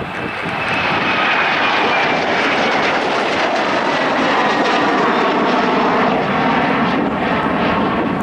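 Airliner's engines passing close by: a loud, broad rush that swells over the first second and then holds steady, with a faint high whine sliding slowly down in pitch.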